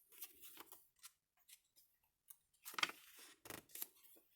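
Paper rustling and soft handling clicks as the pages of a handmade junk journal are turned, with a louder rustle about three seconds in.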